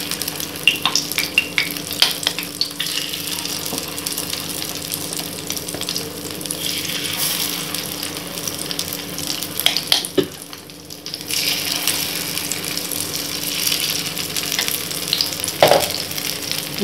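Rice-flour paniyaram batter frying in hot oil in the wells of a kuzhi paniyaram pan: a steady sizzle with occasional sharp clicks and crackles. The sizzle dips briefly about ten seconds in.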